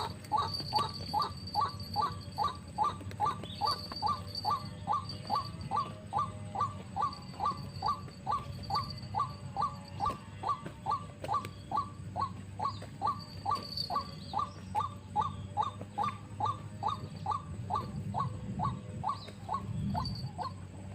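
White-breasted waterhen calling: one short, falling note repeated steadily about two to three times a second, stopping near the end.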